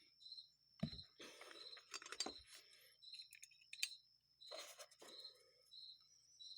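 Faint small metal clicks and handling noises from hand work on a carburetor float and its tang, over a cricket chirping repeatedly with short high chirps.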